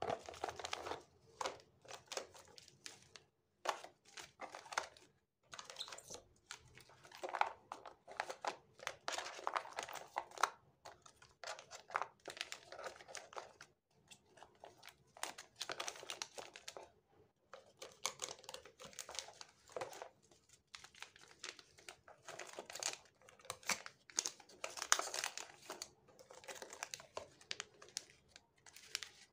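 Packaging crinkling and rustling in irregular bursts as it is handled, with brief pauses between.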